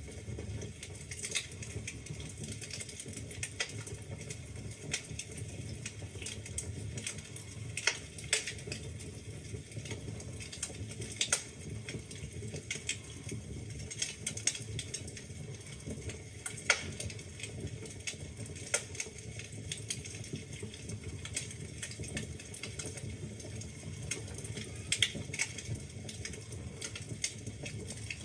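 Wood fire burning in a fireplace: a steady low rumble of flames with frequent irregular crackles and pops from the logs, a few of them sharp and loud.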